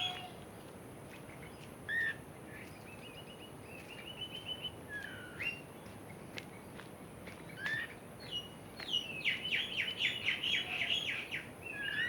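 Free-flying songbirds chirping and calling in the morning: scattered short whistles and chirps, then a quick run of repeated chirps near the end.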